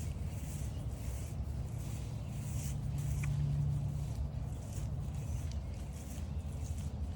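Footsteps swishing through trail grass at a walking pace, over the low steady drone of a distant engine that swells slightly about halfway through.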